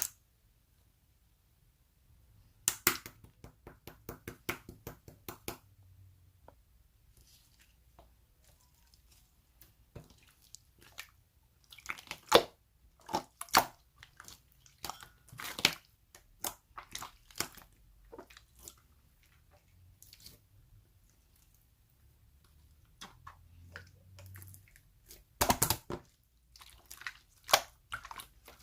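Slime being squeezed and poked by hand, giving runs of quick wet clicks and pops of trapped air, with quiet stretches between the runs.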